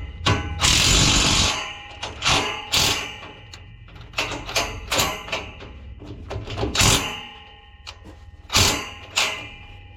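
Metal parts of a combine clanking and knocking as they are worked on by hand, with about a dozen irregular sharp strikes. A rushing, scraping noise lasts about a second near the start.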